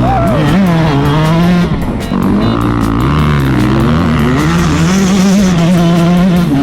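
Yamaha dirt bike engine revving up and down repeatedly as the bike slides, with background music.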